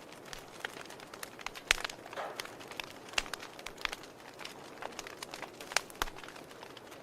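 Wood logs burning in a fireplace, crackling with irregular sharp pops over a soft steady hiss; two louder pops come under two seconds in and near six seconds.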